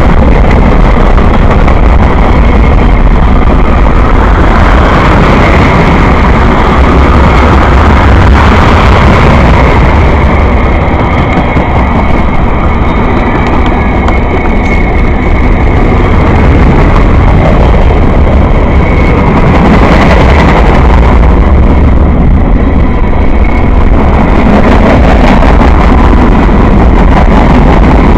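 Train passing close by: a steady, loud rumble of wheels on the rails.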